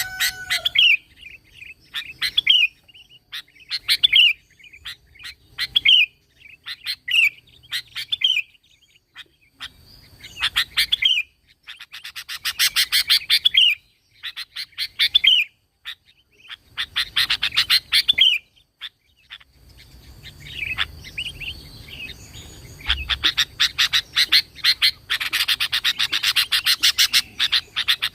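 Sooty-headed bulbul singing: short whistled phrases repeated about once a second, broken by bursts of rapid chattering notes. The most sustained chatter comes near the end.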